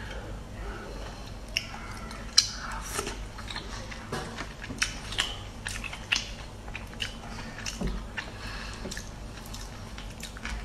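Close-up chewing and wet mouth sounds of someone eating soft braised fish, with sharp smacks and clicks scattered throughout. The loudest comes about two and a half seconds in.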